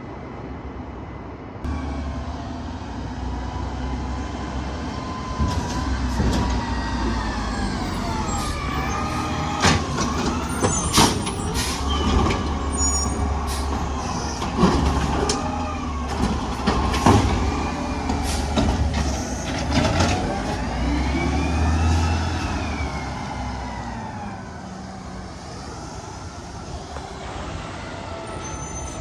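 Garbage truck engine revving up and down several times over a steady low rumble, with a series of sharp bangs and clanks in the middle.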